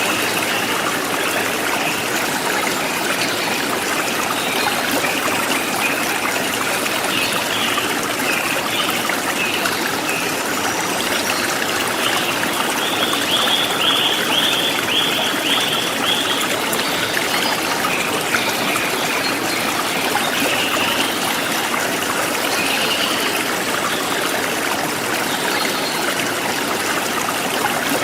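Forest stream flowing and trickling steadily, with birds chirping over it; about halfway through, one bird gives a quick run of repeated notes.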